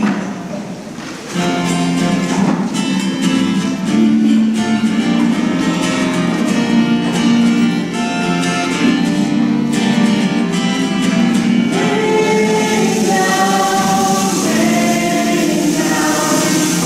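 A choir singing a gospel-style song, with instrumental backing.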